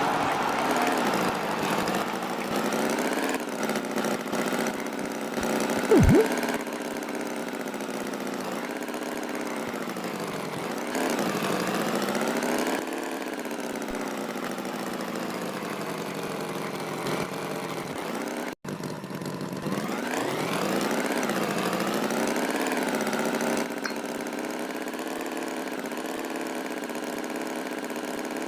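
Tractor engine running, its pitch slowly rising and falling as it revs up and down. A brief loud thump about six seconds in.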